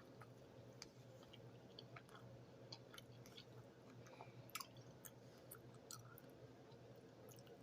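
Faint chewing and small wet mouth clicks from a person eating stew, scattered irregularly over a quiet low hum.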